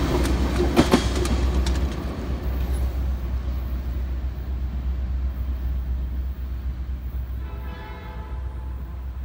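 Freight train's last tank car clattering past over the rail, the wheel clatter fading away within the first couple of seconds and leaving a low rumble. About three-quarters of the way in, a distant train horn sounds once, briefly.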